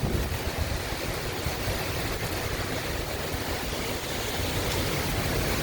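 Heavy rain and strong wind gusts of a severe thunderstorm: a steady rushing hiss, with wind buffeting the microphone in a low, unsteady rumble.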